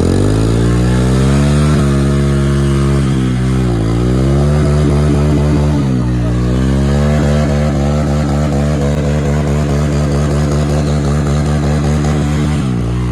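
Motorcycle engine revving hard and close, its pitch dipping and climbing back about four and six seconds in.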